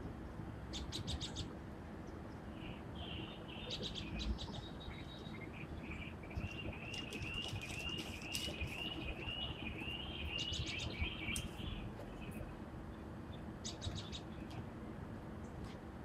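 Birds chirping and singing outdoors, picked up through a phone's microphone over a steady background hiss. In the middle one bird repeats a slurred note about twice a second.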